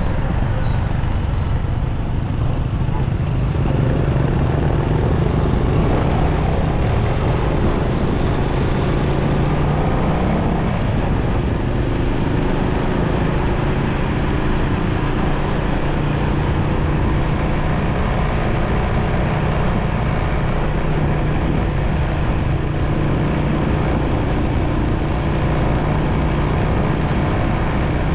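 Motorcycle engine running at a steady road speed, with the noise of surrounding road traffic.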